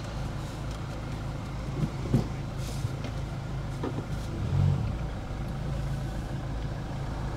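Car engine idling steadily, with a few light clicks and a brief low thump about two thirds of the way through.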